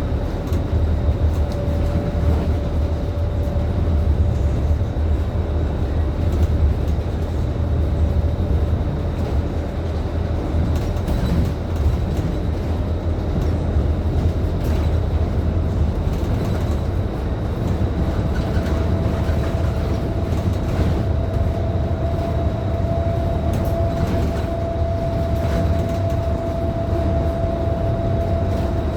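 Scania K310IB city bus on the move, heard from inside the cabin: a heavy low engine and road rumble with a steady drivetrain whine that steps up in pitch about two-thirds of the way through as the bus speeds up. Light rattles and clicks from the body come and go.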